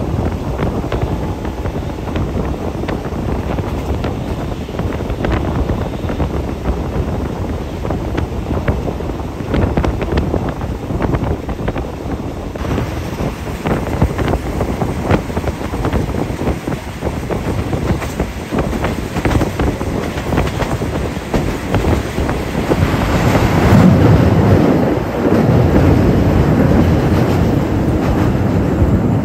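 Moving passenger train heard from inside the coach: a steady rumble with wheels clicking over rail joints and wind noise from the open window. It grows louder for a few seconds near the end.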